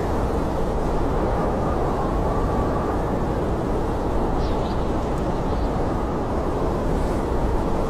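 Blizzard wind blowing steadily in a low, rumbling roar, with a faint wavering whistle running through it.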